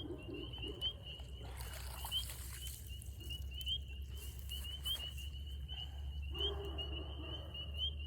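A chorus of spring peepers: a constant high peeping, with single short rising peeps standing out every half second or so. About two seconds in, and again near the end, comes a brief rush of splashing water.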